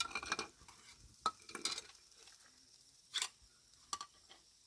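Cooking utensils and dishes clinking and scraping: about five short knocks spread over a few seconds.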